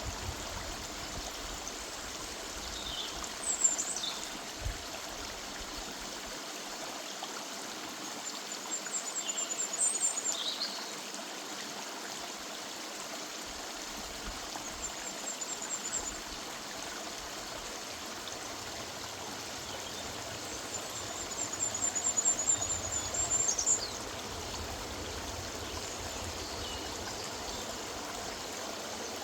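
Steady rush of a river's running water, with a small songbird calling over it several times: short, rapid high trills and quick downward-sweeping whistles.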